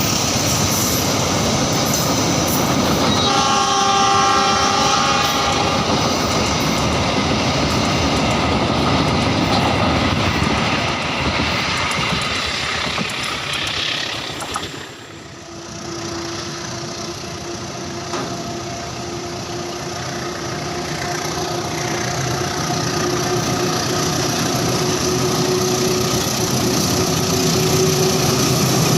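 Train running by, with the rumble and clatter of its wheels on the rails. The locomotive's horn sounds for about two seconds near the start. In the second half a steady humming tone rises slightly in pitch.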